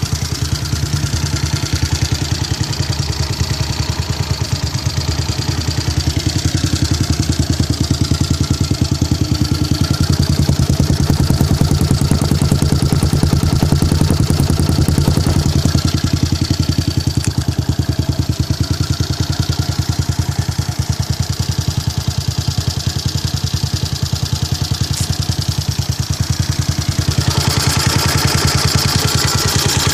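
Honda Sonic 125 motorcycle engine idling steadily, a low even exhaust note.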